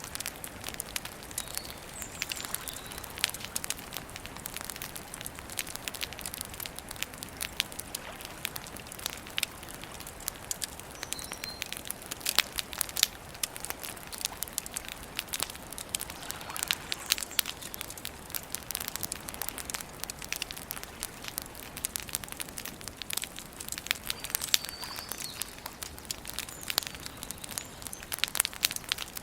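Wood campfire crackling and popping, with many sharp snaps throughout. Faint bird chirps come in now and then.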